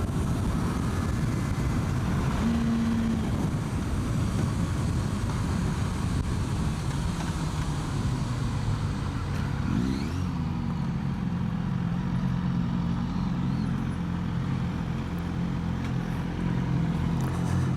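600cc sports motorcycle ridden flat out, heard from on board with heavy wind rush over the engine. About halfway through the wind noise falls away as the bike slows off its top-speed run, and the engine settles into a steadier, lower note.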